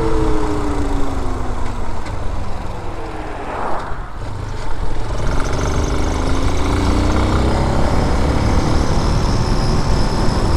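Air-cooled 250cc dirt bike engine under way, its pitch falling as the bike slows over the first few seconds, then rising again as it accelerates from about five seconds in.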